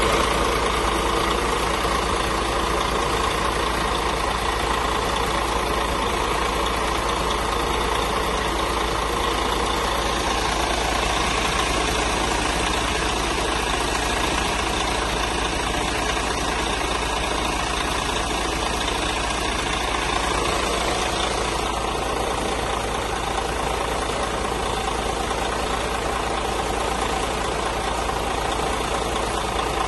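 Mercedes-Benz Tourismo coach's diesel engine idling steadily.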